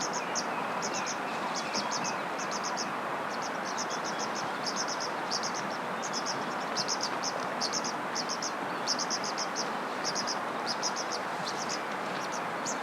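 Insect chirping in quick high-pitched groups of about three to five pulses, repeating every half second or so, over a steady dense hiss of background chorus.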